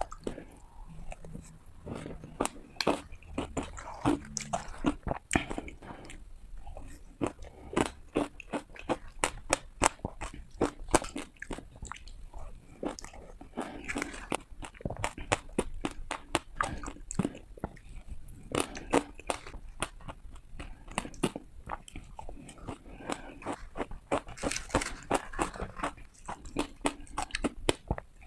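Hard ice being bitten and crunched between the teeth, close to the microphone: rapid runs of sharp cracks and crunches, bite after bite, with short pauses between.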